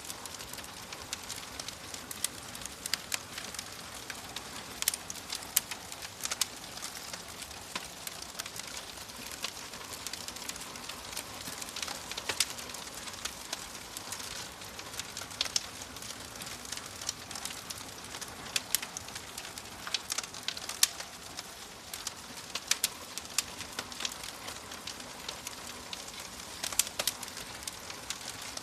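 Wood fire crackling in a fireplace: a steady hiss with irregular sharp pops and snaps throughout.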